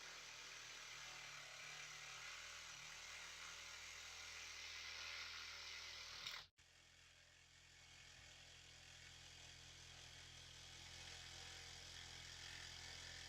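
Near silence: faint steady background hiss, cutting out abruptly for a moment about halfway through.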